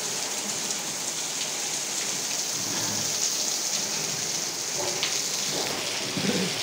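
Heavy rain falling steadily on a concrete courtyard floor, a continuous even hiss.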